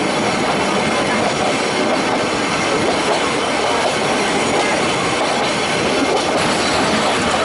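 Nilgiri Mountain Railway toy train coach running along the track, heard from the carriage window: a steady rumble and rattle of wheels on rails.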